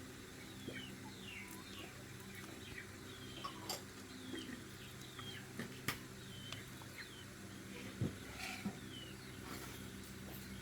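Small birds chirping in many short, falling peeps over a steady low hum, with a few sharp clicks.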